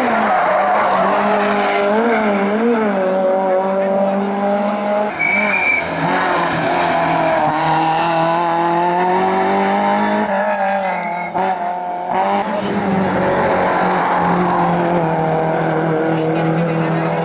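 Competition car engine at full throttle on a hillclimb, its pitch rising and falling with the revs, with tyres squealing.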